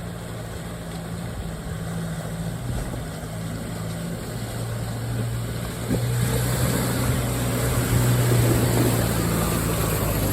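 Can-Am side-by-side's engine running steadily under way, with a wide wash of tyre and trail noise; the engine grows louder about six seconds in.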